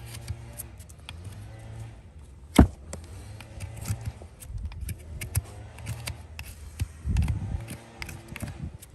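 Farrier work on a horse's hoof: scattered clicks and scrapes of tools on the hoof, one sharp knock about two and a half seconds in, and a cluster of dull thuds near the end, over a low hum and faint music.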